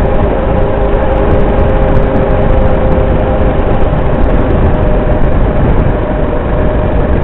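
Motorcycle engine running steadily under a heavy low rumble, with its engine note shifting slightly about five to six seconds in.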